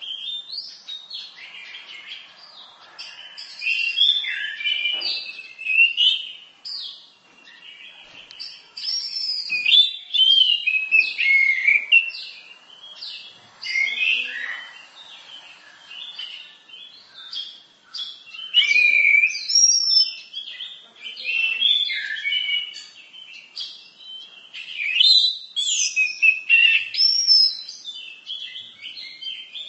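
Orange-headed thrush singing a long, varied song of fast whistled and chattering phrases. The phrases come in bursts separated by short pauses, and the pitch keeps sliding up and down.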